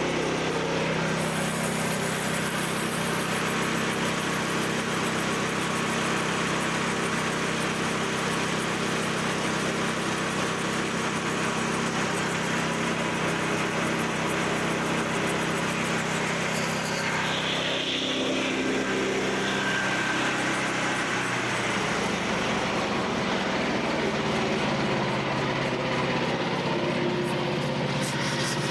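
Frontier OS27 portable band sawmill running throttled up, its small gas engine and spinning band blade making a steady drone, with the blade cabinet open so the wheels can be checked for wobble behind repeated blade breakage. The pitch drops a little about three quarters of the way through.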